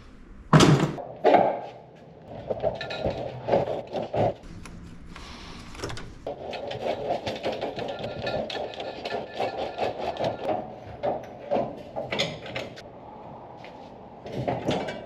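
Hand tools and metal parts being worked on a car during engine removal: two sharp clanks near the start, then scattered knocks and a long run of rapid clicking and rattling.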